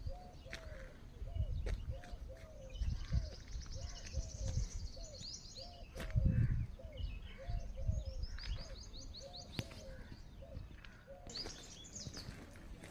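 Birds calling: a steady run of short, low, arched notes about two a second, overlaid three times by bursts of rapid high-pitched trilling. Low rumbling thumps come and go beneath them, the strongest about six seconds in.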